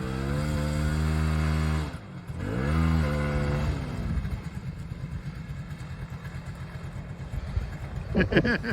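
Old Yamaha Bravo snowmobile's two-stroke engine revving up and holding high for about two seconds, dropping briefly and revving again, then falling back to a low, uneven putter from about four seconds in.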